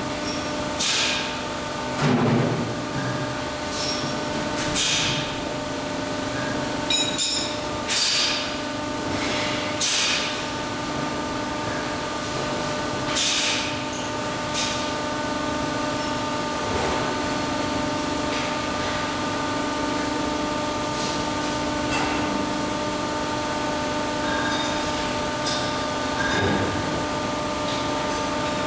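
Steady machinery hum with several fixed tones, broken every few seconds by short hissing bursts and an occasional thump.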